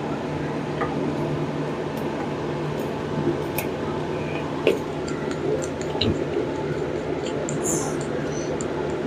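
Steady hum with scattered light clicks and taps of tools and parts being handled.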